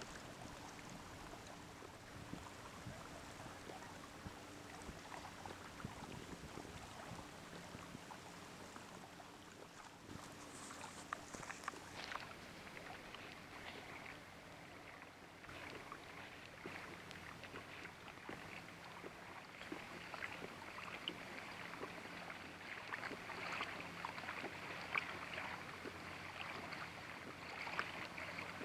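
Water splashing and trickling in many small crackles around the hull of a Hobie i12S inflatable kayak, growing busier from about twelve seconds in, with a faint low hum underneath.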